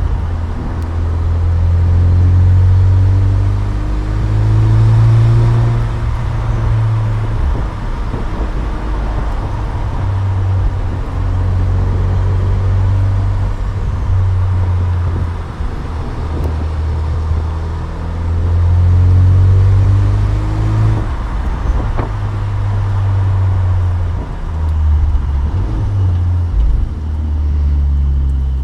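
2007 Saturn Sky Redline's turbocharged 2.0-litre four-cylinder engine and factory exhaust while driving, twice pulling harder with the engine note rising and getting louder, easing off to a lower, uneven drone in between.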